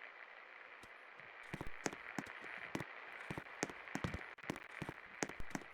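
Hunter Savoy Deluxe ceiling fan running, a faint steady hiss with irregular sharp clicks and ticks from about a second and a half in.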